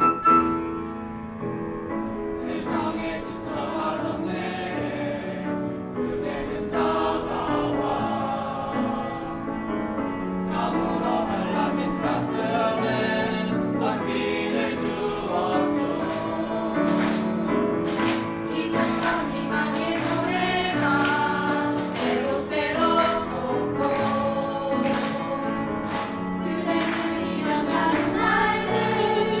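Choir singing with instrumental accompaniment. From about halfway through, sharp strokes come roughly once a second in time with the music, fitting hand-clapping along with the song.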